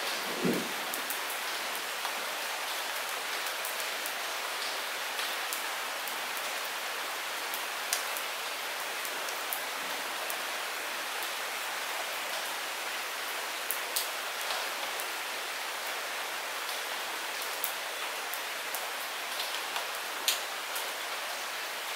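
Light rain falling steadily, an even hiss of drops, with scattered louder single drops ticking close by every few seconds and one duller drop-knock near the start.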